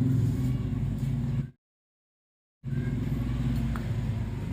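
An engine running steadily at idle, broken by about a second of dead silence from an edit cut.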